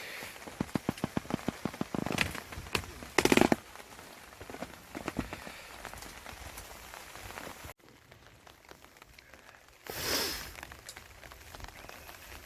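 Rain pattering steadily on a camping tarp, with a quick run of sharp clicks early and one loud knock about three seconds in.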